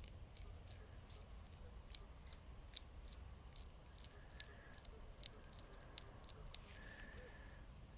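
Faint, scattered crackling clicks, with a faint high steady tone from a metal detector sounding briefly near the end.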